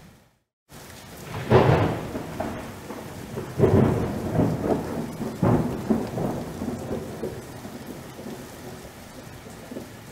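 Thunderstorm: steady rain with thunder rumbling, three loud peals about two seconds apart that die away slowly, after a moment of silence at the start.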